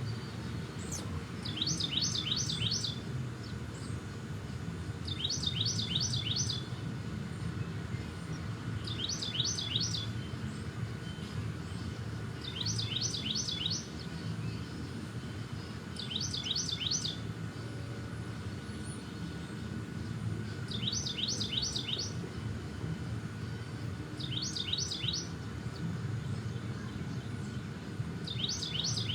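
A songbird singing the same short phrase over and over: a quick run of high, thin notes lasting about a second, repeated eight times at roughly four-second intervals, over a steady low rumble.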